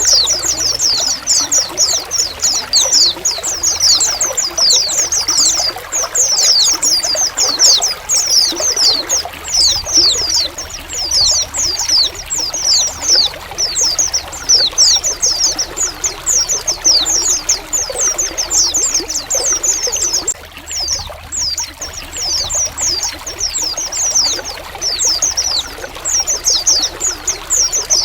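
A flock of white-eyes (pleci) calling together, a dense, unbroken chatter of short, high, downward-sweeping chirps, over steadily trickling water. The chirping thins briefly about two-thirds of the way through.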